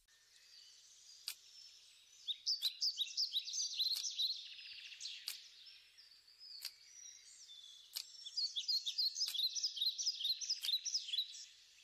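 Birds chirping in quick runs of short high calls, in two spells, with a sharp tick repeating evenly about every second and a half.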